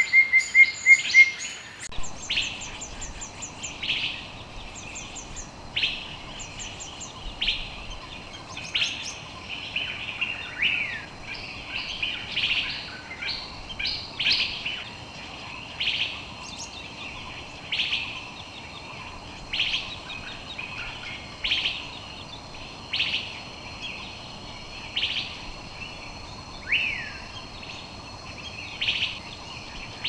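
Wild birds calling: a short, sharp call repeated about every two seconds, with other chirps around it and a thin steady high tone joining about a third of the way in.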